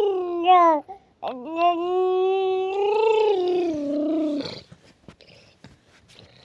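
A young child imitating a car with his voice: a short held sound, a brief break, then a long held car noise of about three seconds that drifts slightly up and down in pitch, stopping about four and a half seconds in.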